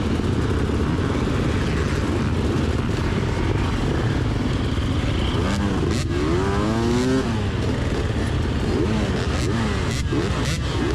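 Dirt bike engines running at idle together, with one bike revved up and back down about six seconds in and smaller blips of the throttle later.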